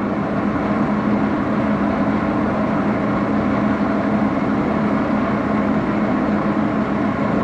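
Axelson engine lathe running steadily, its spindle and gearing giving a constant hum with a steady tone under an even mechanical noise.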